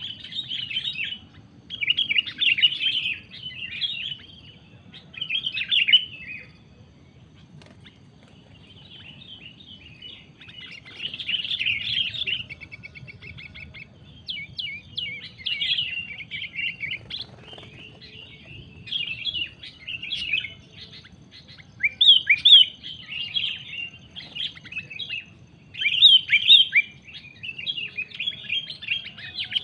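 Sooty-headed bulbul (kutilang) chattering calls, coming in repeated bursts of a second or two with short gaps. There is a quieter stretch of a few seconds about a quarter of the way in.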